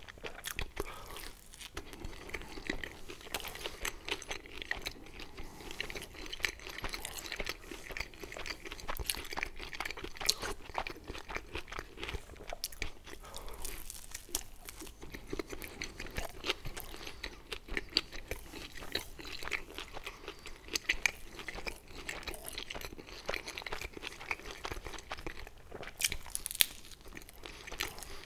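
Close-miked chewing of pizza, with bites and a light crunching of the crust: a steady run of small mouth clicks and crackles.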